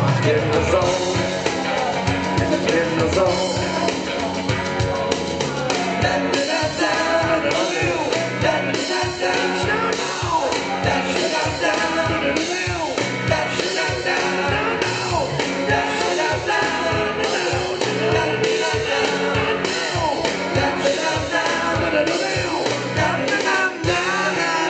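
Rock band playing, with a steady driving beat and no clear lyrics.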